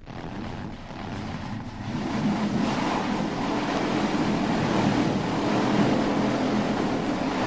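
Stock car engines running together, a steady dense engine noise that swells over the first two seconds and then holds.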